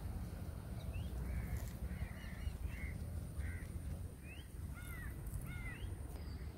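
Birds calling outdoors: a series of short, crow-like calls from about a second in until near the end, over a steady low rumble of wind on the microphone.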